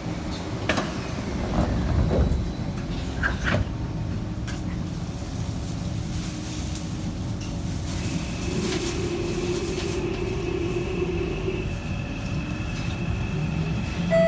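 Kawasaki C151 train's permanent-magnet traction motors whining as the train accelerates away from the platform, over a steady wheel and car-body rumble. This whine is the motor sound known as the 'motorcycle sound'. A few knocks from the car come in the first few seconds, and a high steady whine joins about eight seconds in.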